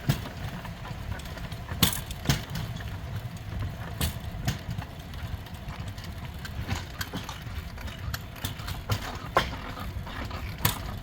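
Steel wheels of a pedal-powered rail bike rolling on old railway track: a steady low rumble broken by irregular sharp clacks, about a dozen over the stretch.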